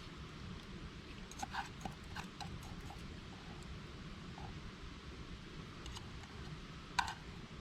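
A few light clicks and taps, a cluster of them early and one sharper click about seven seconds in, over a steady low background rumble.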